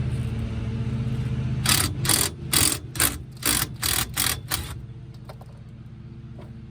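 A hand ratchet worked in nine quick strokes, about three a second, over a steady low hum that stops near the end.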